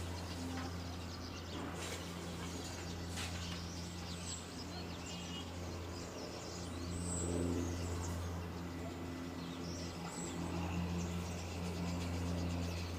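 Small birds chirping in short, scattered calls over a steady low hum of distant outdoor background noise.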